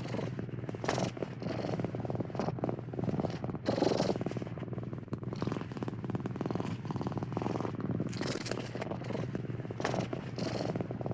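Domestic cat purring steadily and close, with the purr swelling louder now and then.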